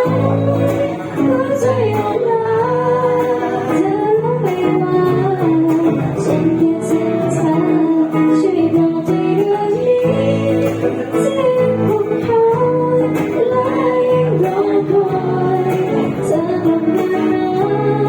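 A woman singing a slow Thai ballad with acoustic guitar accompaniment, holding long, gliding melodic notes.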